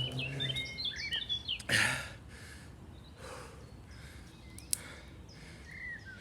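A person breathing hard after a sprint: a loud exhale about two seconds in, then slower, fainter breaths. Small birds chirp in the first second and a half, and there is a single sharp click late on.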